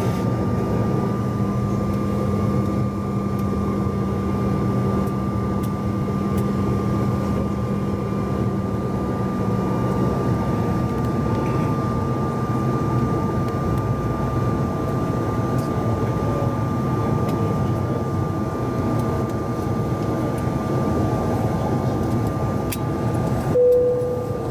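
Steady in-flight cabin noise of a Bombardier CRJ-900 jet airliner: its rear-mounted turbofans and the airflow make a continuous roar with a few steady hum tones. Near the end a brief tone sounds.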